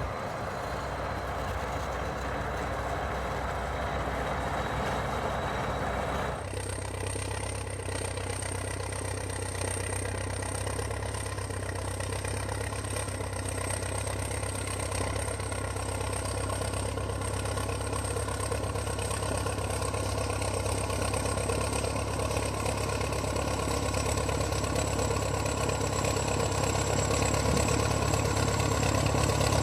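Heavy Soviet tractor's diesel engine running steadily. The sound changes abruptly about six seconds in and grows gradually louder toward the end.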